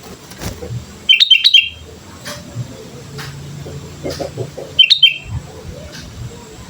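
Sooty-headed bulbul (kutilang) song: a burst of loud, quick chirping notes about a second in, and a shorter burst near five seconds in.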